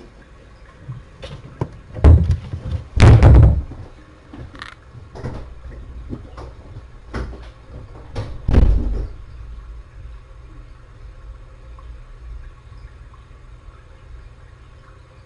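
A run of knocks and bumps, like a door or cupboard being handled. The heaviest come about two and three seconds in and again near nine seconds, with lighter clicks between. A faint low hum is left after that.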